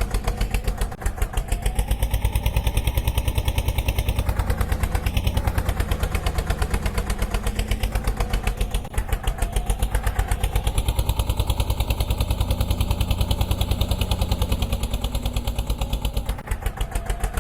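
Road roller engine running with a rapid, even beat of firing pulses that holds steady throughout.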